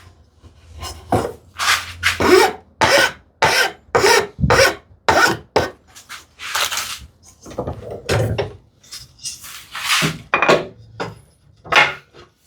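Hand tool scraping wood in quick repeated strokes, about two a second, with a short pause near the end: light cleanup of the wood so nothing will catch.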